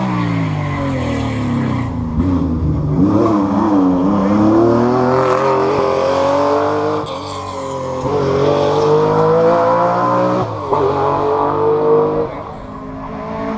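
Rally car engine accelerating hard through the gears: the revs fall briefly at first, then climb, drop sharply at upshifts about seven and ten and a half seconds in, and climb again before easing off near the end.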